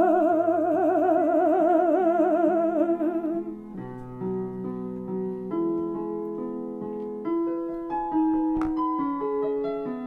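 A singer holds one long note with a wide vibrato over sustained electric keyboard chords. About three and a half seconds in the voice stops and the keyboard plays on alone, stepping through chords and single notes.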